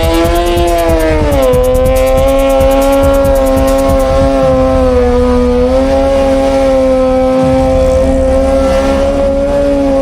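Drag-racing motorcycle engine held at steady high revs. The pitch dips slightly about a second in, then holds level.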